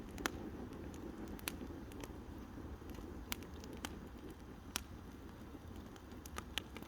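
Campfire crackling: a handful of sharp, irregular pops over a low, steady rumble.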